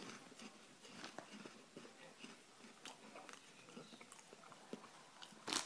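Faint close-up chewing of Baked Wotsits cheese puffs: scattered soft crunches and mouth clicks. A sudden louder rustle comes right at the end.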